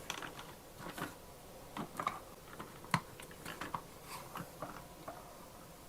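Light, irregular clicks and taps of plastic toy parts being handled as popsicle molds are fitted into a plastic Play-Doh ice cream truck playset, with the sharpest click about three seconds in.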